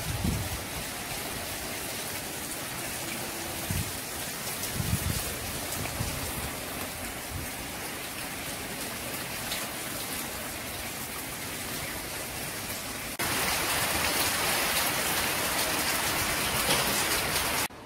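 Steady rain from a tropical storm, an even hiss with a few low rumbles in the first five seconds. About thirteen seconds in, the hiss turns abruptly louder and stays so until just before the end.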